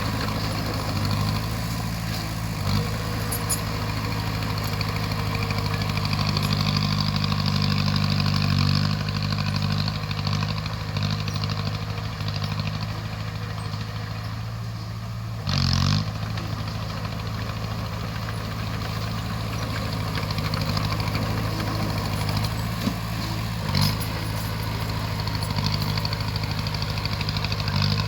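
Heavy diesel engine of a crawler bulldozer running steadily, its load rising and falling, with a few brief clanks.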